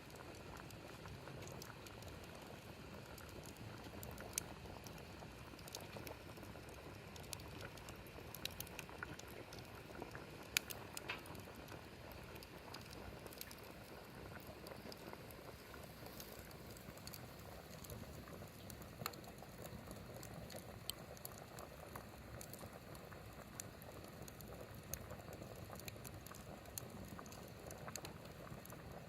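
Pot of water boiling over a wood fire, bubbling steadily, with scattered sharp crackles and pops from the burning wood.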